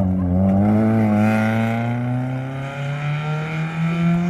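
Rally car's engine revving hard as it accelerates out of a gravel bend, its note climbing slowly.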